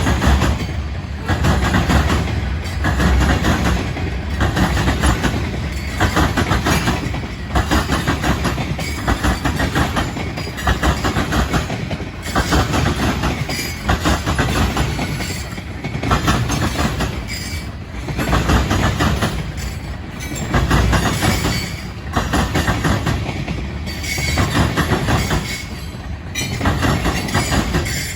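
Freight cars of a Norfolk Southern train rolling past, their wheels clacking over the rail joints in a regular repeating rhythm.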